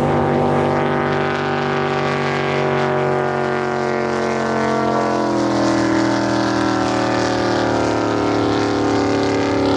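Drag boat engine running at a steady pitch, easing down slightly about five seconds in.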